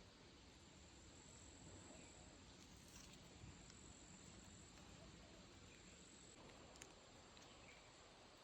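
Near silence: faint background hiss with a thin, high, steady tone that drops out now and then.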